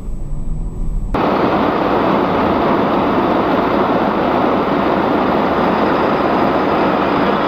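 A low vehicle engine hum that cuts off abruptly about a second in, replaced by loud, steady rushing noise of a moving vehicle.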